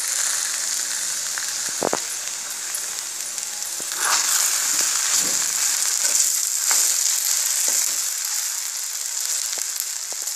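Cut okra sizzling as it fries in oil in a kadai, a steady high hiss that grows a little louder about four seconds in, with a few scrapes of a spatula stirring it through the pan.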